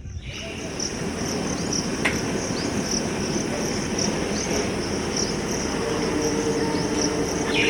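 Crickets chirping in a quick repeating pattern over the rising rumble of an approaching metre-gauge train. From about six seconds a steady low two-note hum joins in.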